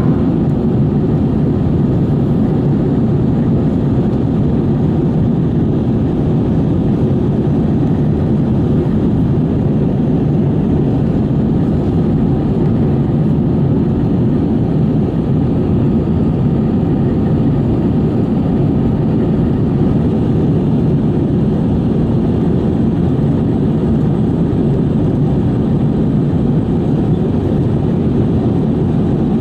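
Steady, even cabin drone of an Airbus A320 climbing after takeoff: engine noise and rushing air heard inside the passenger cabin, deep and unbroken.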